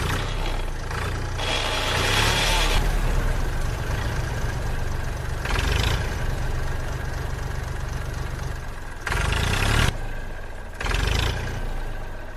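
A mini tractor's small motor running steadily with a low hum. It rises in four louder, rougher surges, about two, six, nine and eleven seconds in, then fades near the end.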